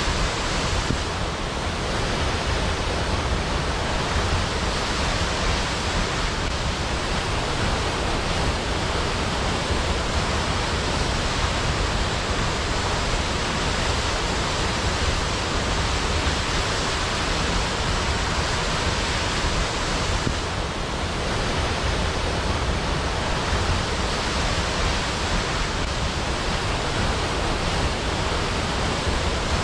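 Waterfall: a steady, dense rush of falling water with a strong low rumble beneath it.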